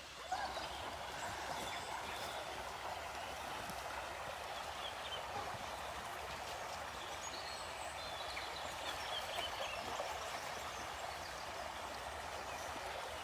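River water rushing steadily, with a few faint short high calls over it.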